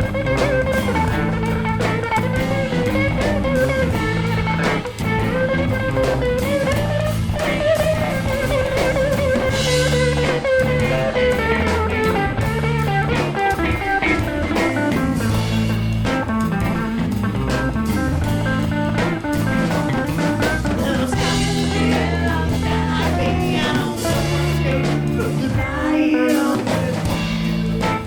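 Rock band playing an instrumental passage with no vocals: a lead guitar line over bass and drums.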